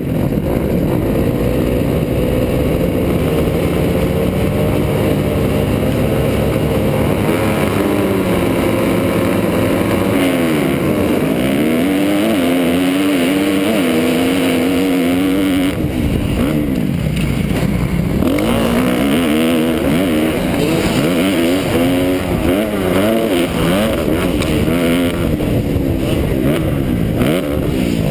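2009 Kawasaki KX250F's single-cylinder four-stroke engine being ridden hard, its pitch climbing and dropping again and again with the throttle and gear changes.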